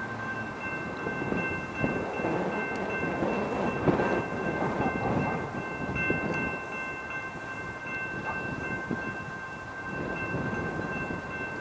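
Railroad grade-crossing bell ringing steadily in clear repeated high tones over the rumble and rolling noise of a passing train.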